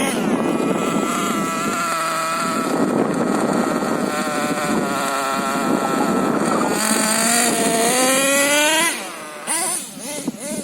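Nitro RC monster truck's LRP ZR.28 two-stroke glow engine running under throttle, its pitch wandering up and down. About seven seconds in it revs up in a long rising whine as the truck accelerates, then drops off sharply about nine seconds in.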